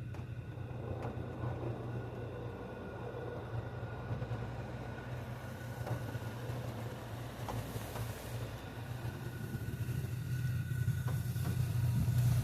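Automatic car wash running: a steady low hum with a faint steady whine and a few clicks. A hiss comes in about five seconds in, and the whole grows louder toward the end.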